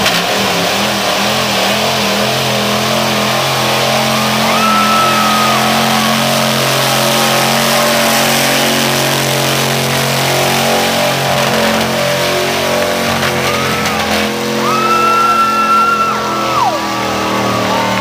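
Super stock pulling truck's engine running loud and steady at a truck pull. Twice a high whistling tone rises, holds and drops away, about four seconds in and again about fifteen seconds in.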